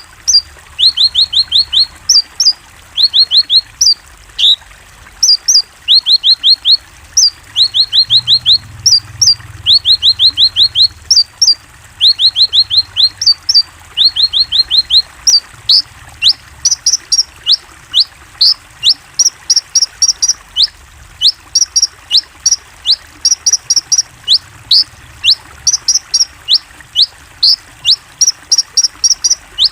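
Small songbirds chirping loudly and continuously: quick runs of five or six short falling chirps with paused gaps, changing about halfway to single sharp falling whistles mixed with higher twitters.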